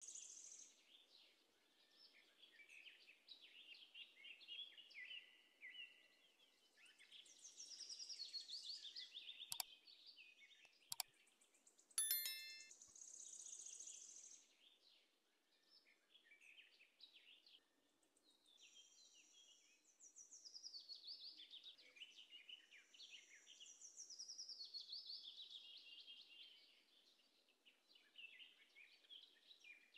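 Birds chirping and singing in short, repeated high phrases, some falling in pitch. Two sharp clicks come about ten and eleven seconds in, followed by a brief ringing tone.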